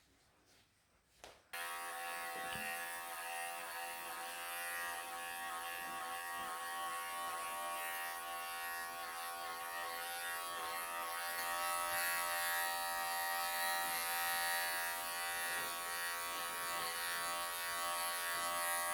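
Wahl electric pet clippers switched on about a second and a half in, then running with a steady buzz as they clip a long-haired cat's fur for a sanitary clip, getting slightly louder toward the end.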